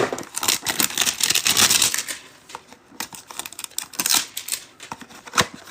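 Trading card packaging being torn open and handled: a crinkly tearing for about the first two seconds, then scattered clicks and taps.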